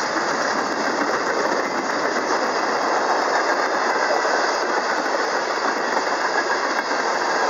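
Freight cars of a Norfolk Southern mixed freight train, tank cars and covered hoppers, rolling past: a steady noise of steel wheels running on the rails.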